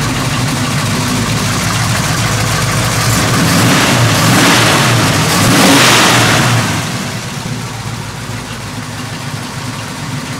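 AMC 360 V8 engine running at idle, revved up from about three seconds in and settling back to idle about seven seconds in.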